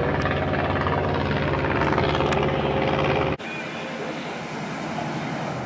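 Steady low-pitched engine drone, cut off abruptly about three and a half seconds in, leaving a quieter background.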